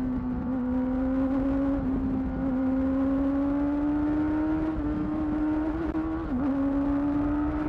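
2008 Yamaha R6's inline-four engine running through a Termignoni exhaust, holding high revs with its pitch rising slowly. The note dips briefly about six seconds in.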